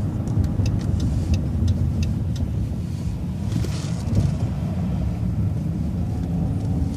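Transit bus running through a turn, heard from the driver's seat: a steady low engine and road rumble. A run of light, irregular clicks and rattles comes in the first two and a half seconds, and a brief hiss about four seconds in.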